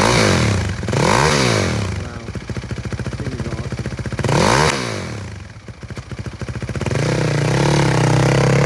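2005 Yamaha WR450F's single-cylinder four-stroke engine running just after an electric start, with three quick throttle blips early on. It is then held at a higher, steady speed from about two-thirds of the way in.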